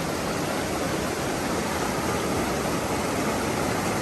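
Fast snowmelt mountain river rushing over rocks, a steady, even roar of water.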